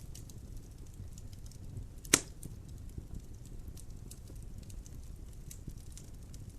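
Wood fire burning in a fireplace: a low steady rumble with scattered small crackles, and one loud sharp pop of a log a little over two seconds in.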